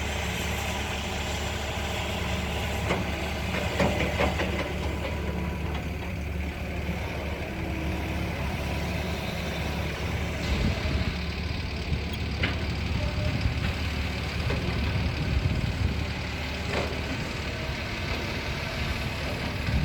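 Excavator's diesel engine running steadily as it digs dirt, with a few scattered knocks.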